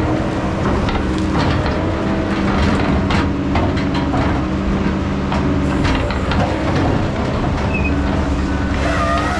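Heavy diesel machine running steadily, with frequent metallic clanks and knocks. Near the end, high squealing tones come in.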